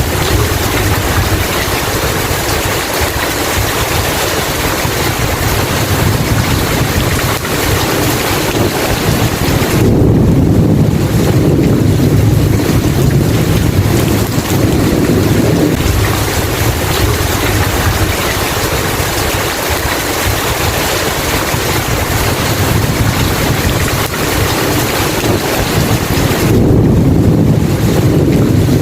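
Steady heavy rain, with a deep rumble of thunder swelling about ten seconds in and again near the end.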